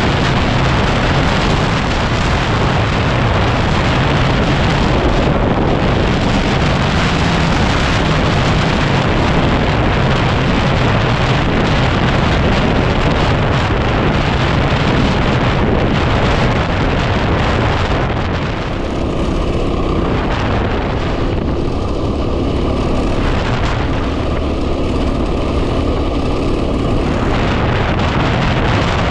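Heavy wind noise on the microphone of a moving 2010 Yamaha WR250R dual-sport motorcycle, with the bike's single-cylinder engine running underneath. The rush thins a little about two-thirds of the way through.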